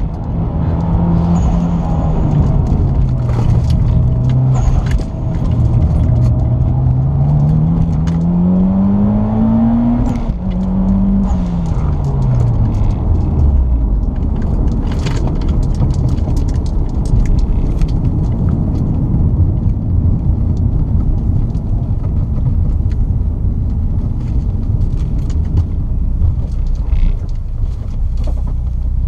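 Mitsubishi Lancer Evolution X's turbocharged 2.0-litre four-cylinder heard from inside the cabin: the engine note dips, then climbs under acceleration until about ten seconds in. It then falls away quickly as the car slows, leaving a steady low rumble of engine and road noise with light rattles.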